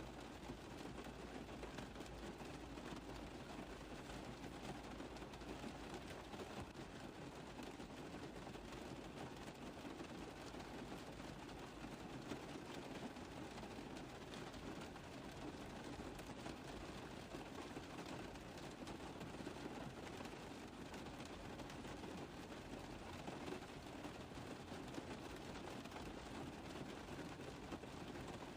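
Steady rain tapping on a car roof: a dense, even patter of drops that holds unchanged throughout.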